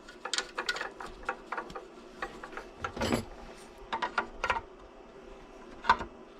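Irregular clicks and knocks of small parts or tools being handled, over a faint steady hum, with a louder knock about three seconds in and another near the end.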